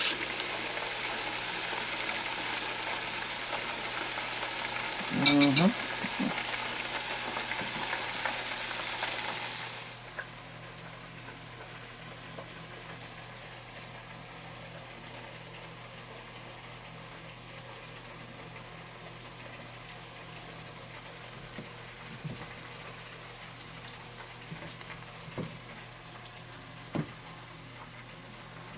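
Chicken frying in hot oil in an open pressure-cooker pot: a steady sizzle, with one brief louder knock about five seconds in. The sizzle cuts off suddenly at about ten seconds, leaving quiet room tone with a few light clicks.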